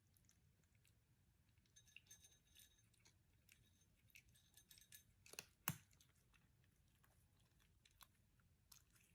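A cat eating its meal: faint crunching and scattered small clicks and clinks of food against the bowl, with one sharper click a little past halfway.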